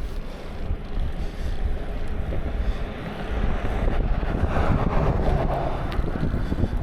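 Wind buffeting the microphone of a moving bicycle rider, a steady low rumble, with a louder hiss swelling about four seconds in.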